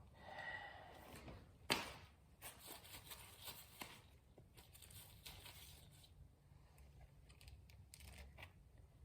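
Faint rustling and light clicks of parts being handled, with one sharp click a little under two seconds in.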